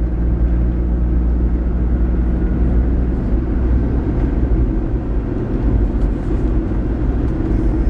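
A car driving with a steady low engine and road rumble.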